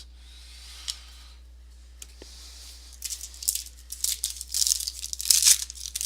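A trading-card pack's wrapper being torn open by hand: crinkly tearing and rustling that starts about three seconds in and grows busier, after a single light click about a second in.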